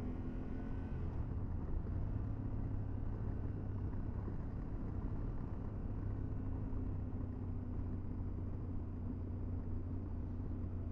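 Motorcycle engine running at a steady, even pace under way, with wind and road noise, heard from a helmet-mounted camera.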